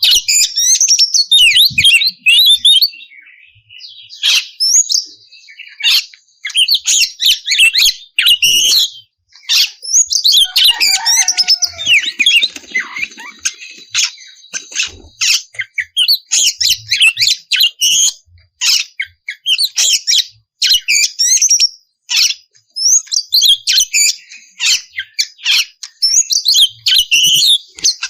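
Oriental magpie-robin (kacer) singing loudly in fast, varied phrases of whistles and chattering notes, broken by short pauses. About ten seconds in, a lower sliding call and some held high notes mix into the song.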